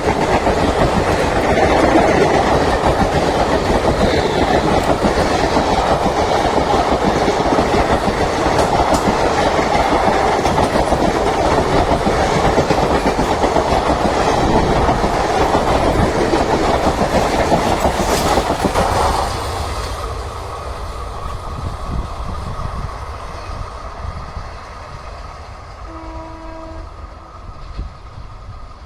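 Trains passing at speed: loud rolling wheel-on-rail noise that drops off suddenly about two-thirds of the way through as the trains clear, then fades. A short, distant horn sounds near the end.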